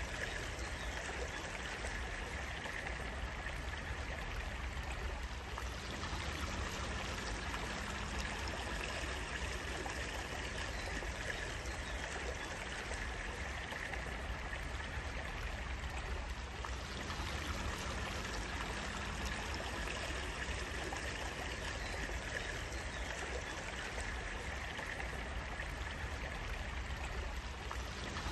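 Water flowing steadily, a constant even rush and trickle like a stream.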